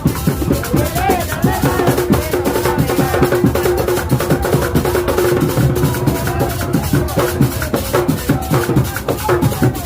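Drum ensemble playing a fast, dense rhythm, with a sustained melodic line over the drums.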